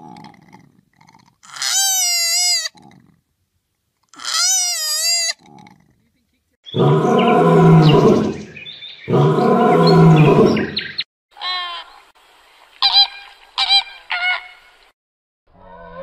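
A koala cries twice with high, wavering wails. Then a lion gives two long, loud, deep roars, followed by several short high-pitched calls.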